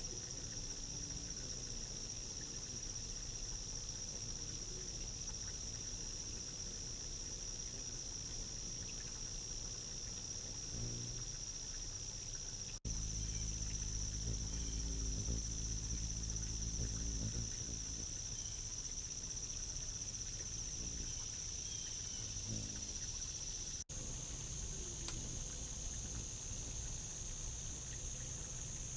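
Steady, high-pitched chorus of insects: one continuous shrill drone that cuts out briefly twice.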